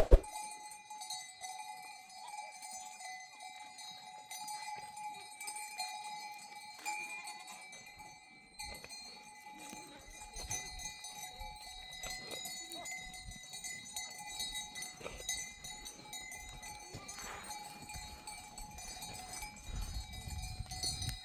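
Livestock bells on a herd of goats and sheep ringing and clinking continuously, with a sharp knock right at the start.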